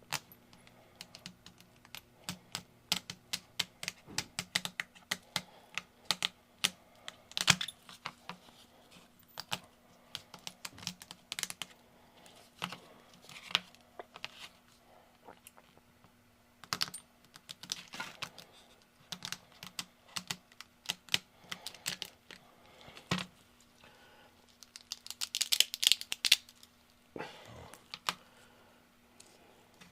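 Small hard resin model parts being handled, snapped and trimmed by hand: irregular light clicks and ticks, with a denser patch of crackling clicks near the end.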